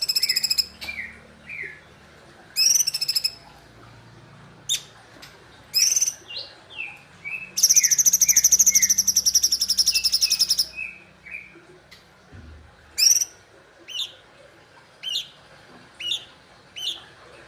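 Cungkok songbird singing in a vigorous, lively bout. Short sharp high-pitched notes and quick sliding chirps come in phrases. In the middle of the bout there is a long rapid trill of about three seconds. Toward the end, single clear calls repeat about once a second.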